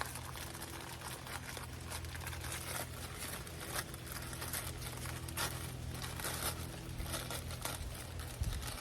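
Crinkling and crackling over a steady low electric hum; the hum cuts off near the end.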